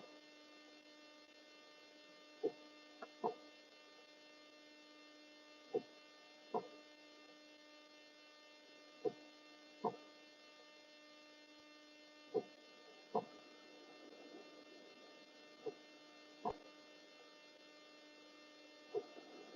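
A steady electrical hum with many overtones. Over it come pairs of short sharp clicks about a second apart, with each pair repeating roughly every three seconds.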